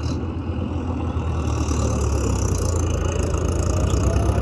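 Tractor diesel engine running hard under load, growing louder, as a mud-stuck tractor is dragged free on a tow rope.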